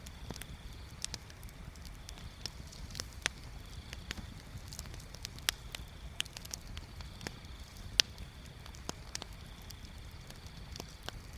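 Bonfire crackling: sharp, irregular pops and snaps of burning wood, the loudest about eight seconds in, over a low steady rumble.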